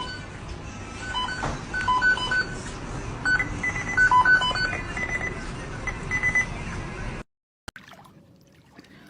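A tune of short, high electronic beeps over a steady noisy background, cutting off abruptly about seven seconds in. Much quieter faint room sound follows.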